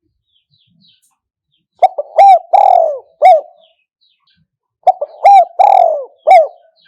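Spotted dove cooing twice. Each phrase is a few short coos, a longer drawn-out coo and a short closing note.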